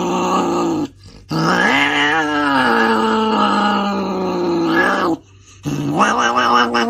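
Angry cat growling in long, drawn-out yowls with a wavering pitch: a short call, then one lasting about four seconds, then another starting near the end.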